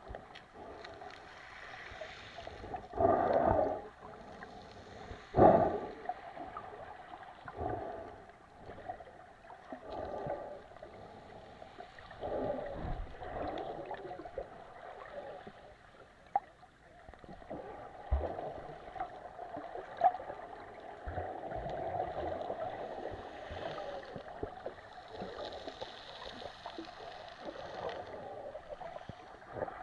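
Mediterranean sea water washing and sloshing in irregular surges, with two louder surges a few seconds in.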